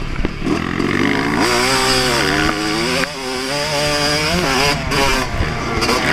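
Yamaha YZ250 two-stroke motocross engine at full throttle, its pitch rising and falling repeatedly as it accelerates, with a sudden drop about three seconds in.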